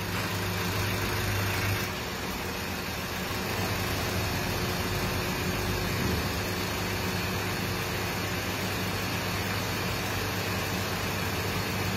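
Diesel engine of a 2013 Fiat Fiorino idling steadily, with a low hum that eases slightly about two seconds in.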